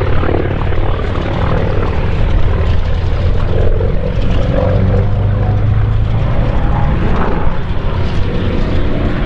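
A Second World War piston-engined propeller fighter flying past in a display, its engine note steady and loud, with the pitch shifting as it passes.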